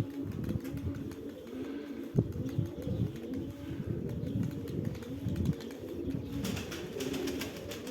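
A flock of domestic Sverdlovsk high-flying pigeons cooing steadily, many low coos overlapping. A short burst of rustling comes in near the end.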